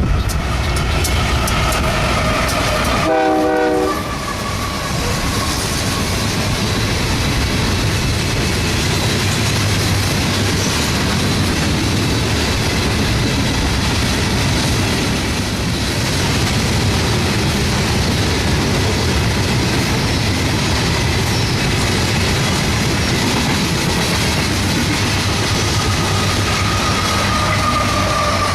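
A diesel-hauled freight train rolling past with steady wheel noise and rail clatter, its horn sounding near the start and again near the end, the pitch falling as it passes.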